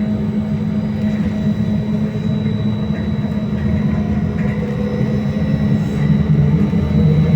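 Interior running noise of a BKM-321 trolleybus under way: a steady rumble with a hum from the electric traction drive and a thin, steady high whine. About six seconds in, the hum shifts a little in pitch and the noise grows a little louder.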